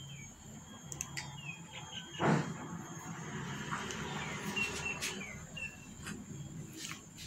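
Short, high chirps of small birds, repeated here and there over a low rustling background, with a single loud thump about two seconds in.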